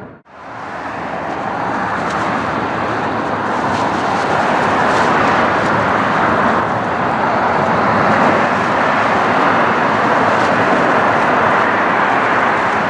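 Boeing 737-800 jet engines (CFM56-7B turbofans): a loud, steady rushing jet noise that swells over the first two seconds or so and then holds level.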